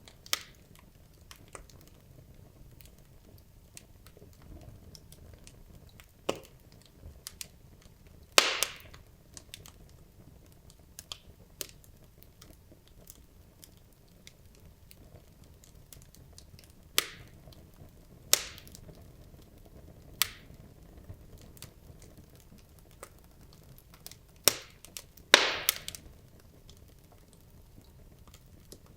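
Wood logs burning in a fireplace: irregular sharp crackles and pops over a low steady hiss, with the loudest cracks about a third of the way in and again near the end.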